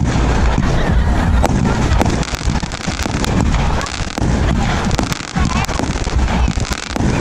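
Fireworks going off in a rapid barrage: many sharp bangs and crackles over a continuous rumble.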